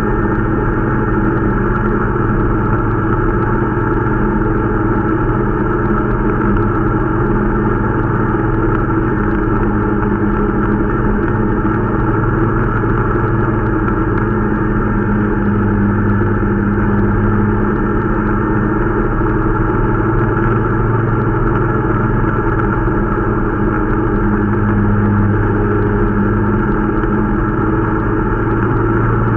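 Irbis Dingo T125 snowmobile's 125 cc single-cylinder four-stroke engine running at a steady, even speed during its break-in ride.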